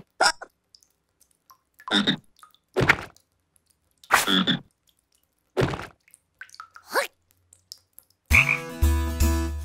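Cartoon frog croaking: about six separate short croaks, each a second or more apart. Near the end a longer held sound with steady tones and a deep bass begins.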